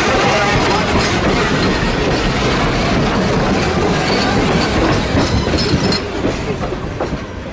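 A train passing close by, its wheels clicking over the rail joints, the sound easing off about six seconds in as it moves away.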